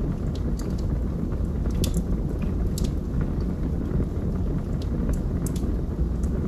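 Wood logs burning in a fireplace: scattered sharp crackles and pops, several in a few seconds, over a steady low rumble of the flames.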